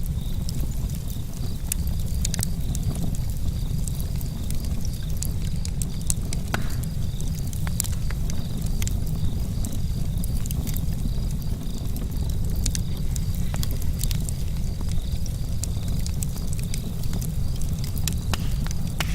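Wood campfire burning: a steady low rumble of flames with frequent sharp crackles and pops from the burning wood. Crickets chirp continuously at a high pitch.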